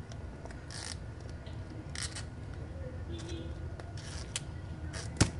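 Faint scratchy, rustling handling sounds in short bursts every second or so, with a sharp click near the end.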